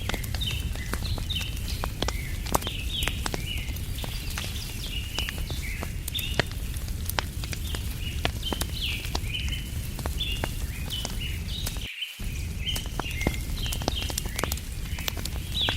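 Wood campfire crackling with scattered sharp pops over a steady low rumble, while small birds chirp constantly in short repeated notes. The low rumble drops out briefly about twelve seconds in.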